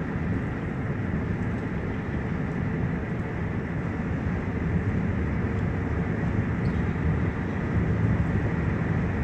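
Steady low rumble of tyre and engine noise heard from inside a car cruising at about 55 mph.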